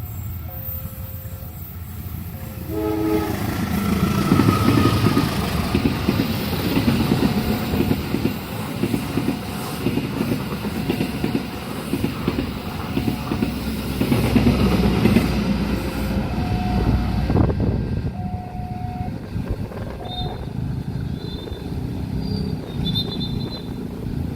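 A long train passes over a level crossing: a horn blast about three seconds in, then the wheels clattering over the rails for some fifteen seconds before easing off. The crossing's two-tone warning chime alternates throughout.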